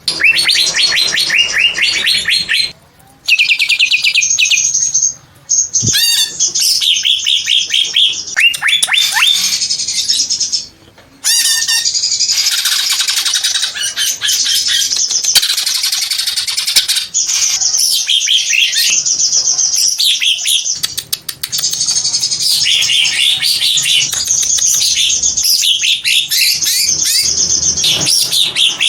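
Cucak hijau (greater green leafbird) singing long, fast runs of high chirps and trills, broken by a few short pauses about 3, 5 and 11 seconds in.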